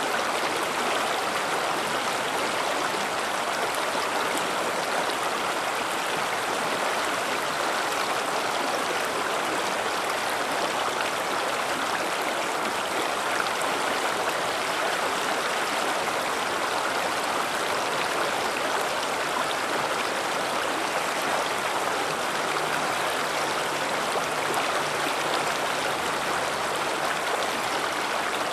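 River water rushing steadily over rocks, a constant, even flow with no breaks.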